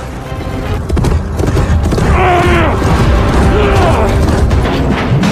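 Action-film soundtrack mix: music over a heavy low rumble with mechanical clatter and creaking, and a few pitched sounds gliding down in pitch about two seconds in.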